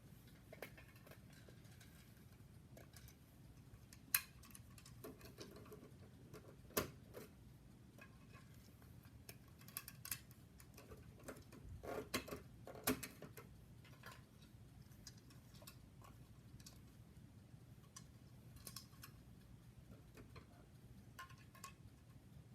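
Faint scattered clicks and knocks over a low steady hum, with a brief cluster of taps about halfway through.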